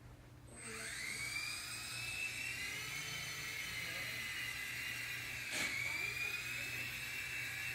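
Small electric motor of an E-flite Blade mCX toy helicopter spinning up, a whine that rises in pitch about half a second in and then holds steady. A single sharp click sounds past the middle.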